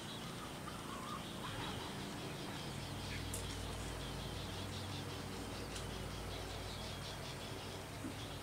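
Faint outdoor bird calls: a few short chirps, mostly in the first few seconds, over a steady background of fast insect-like ticking and a low hum.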